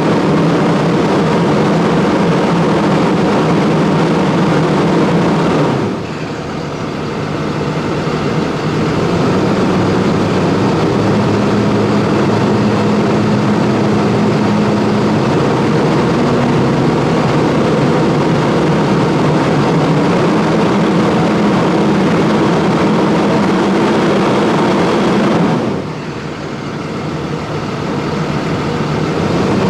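Cummins ISB 6.7 inline-six turbo diesel in a Thomas Saf-T-Liner C2 school bus, its exhaust running steadily under power. The sound drops off suddenly about six seconds in and again near the end, then builds back up over a couple of seconds each time.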